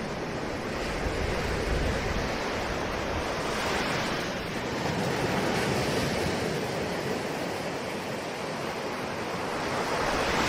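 Ocean surf: a steady wash of waves, swelling and easing every few seconds, with a wave building toward the end.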